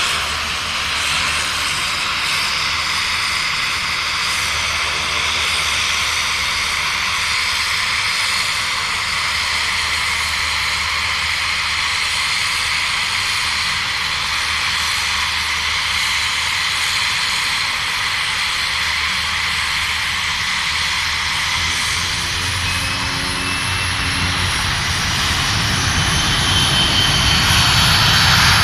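Aircraft turbine engines running with a steady loud whine and hiss. Over the last few seconds the sound grows louder with more low rumble, and the whine rises in pitch.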